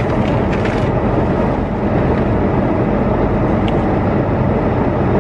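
Car engine running steadily under throttle as the wheels spin in snow without grip, the car stuck and barely moving.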